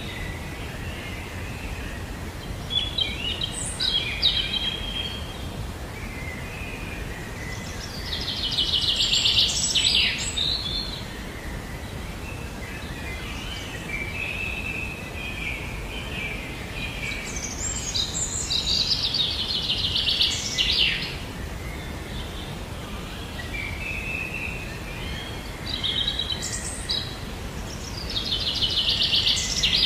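Songbirds chirping and trilling, with a rapid trill coming back about every ten seconds, over a steady low background noise.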